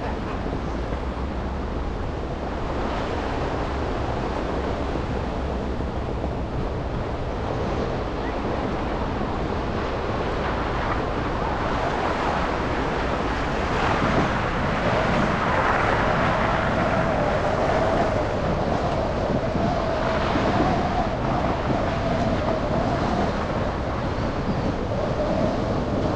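Road and traffic noise of a car driving through snow-covered city streets: a steady rushing hiss of tyres and passing traffic. A droning hum joins about halfway through.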